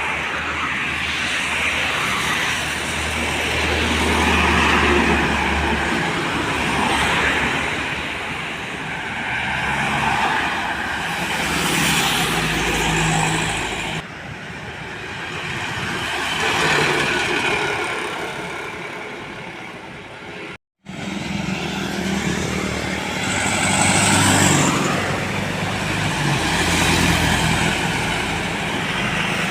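Road traffic with heavy diesel trucks and buses driving past one after another, the engine and tyre noise swelling and fading with each pass.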